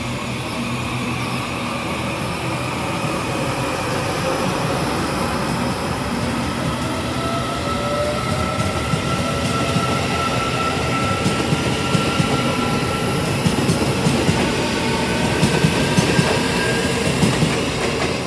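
Train running along the rails: a steady rumbling noise that slowly grows louder, with long, thin whining tones and irregular clacks of wheels over rail joints that come thicker in the second half.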